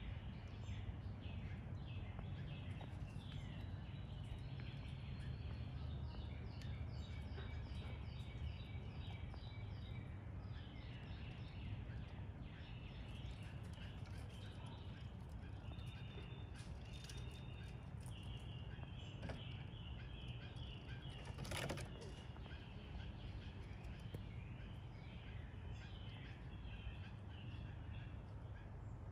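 Outdoor ambience of birds chirping repeatedly in the background over a steady low rumble, with one sharp click about two-thirds of the way through.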